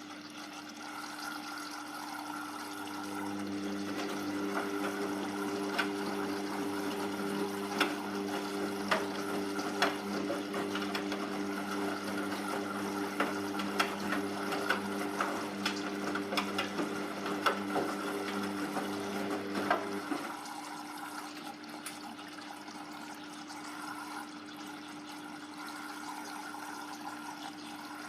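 Hoover washing machine mid-cycle, its drain pump humming with water gurgling and splashing through it, then the pump cutting off abruptly about twenty seconds in, leaving a steady lower hum.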